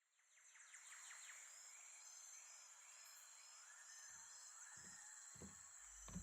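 Faint wilderness ambience: a steady high insect hum with scattered bird chirps and calls. A few soft low notes come in near the end as music begins to swell.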